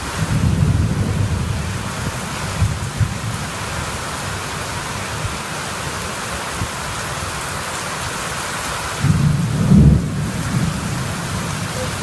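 Heavy rain falling steadily in a thunderstorm, with louder low rumbles in the first second or so and again about nine seconds in.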